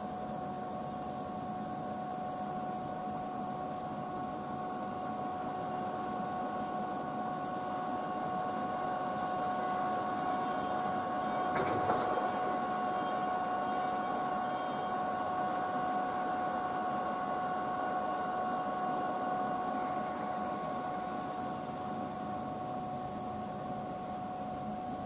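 Tobu 8000-series electric train coupled to an 800-series set rolling slowly past: a steady whine over the rumble of the wheels, louder as the middle cars go by, with a single sharp knock about halfway through.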